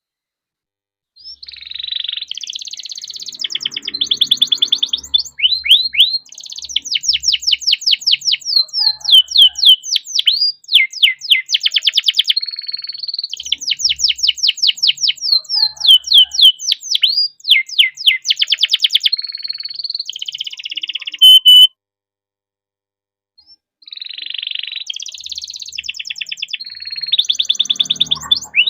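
Domestic canary singing a long, rolling song of rapid trills and fast-repeated high notes, starting about a second in. It breaks off for about two seconds near the end, then starts again.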